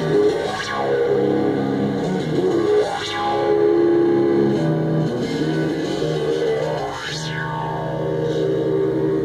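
Modular synthesizer playing sustained, distorted drone tones that shift pitch every couple of seconds, with filter sweeps rising and falling about half a second, three seconds and seven seconds in.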